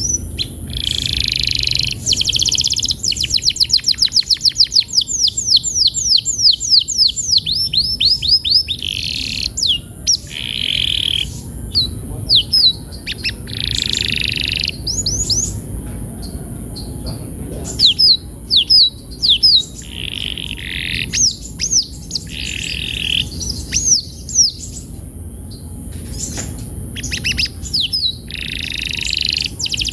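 Canary singing: long, fast trills of repeated sliding notes and bursts of chirps, broken by short pauses, over a steady high hiss.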